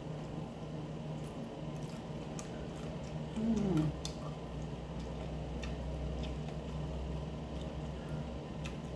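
A person chewing a mouthful of loaded nachos with faint clicking mouth sounds. About three and a half seconds in comes one short hummed "mm" that falls in pitch.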